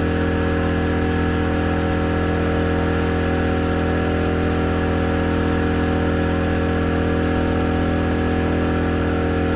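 Morrflate portable 12-volt air compressor running steadily while inflating the tires: a constant mechanical hum that holds one pitch throughout.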